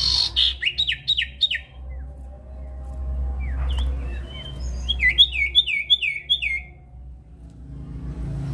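A sirtu (cipoh), the common iora, singing. It gives two fast runs of about five sharp, downward-sliding whistled notes, one at the start and one about five seconds in, with a single call between them.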